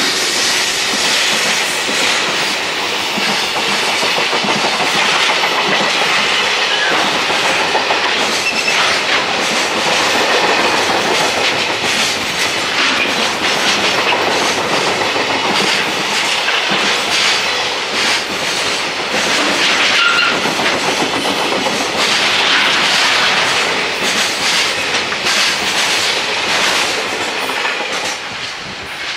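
A train running past close by, its wheels clattering over the rail joints in a dense, loud, steady stream for nearly half a minute before fading near the end.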